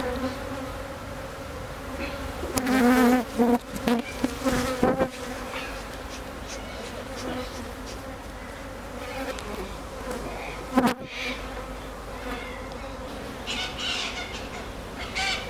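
Honeybees buzzing around an opened hive: a steady hum that swells and wavers about three to five seconds in as bees pass close to the microphone. A single sharp knock about eleven seconds in.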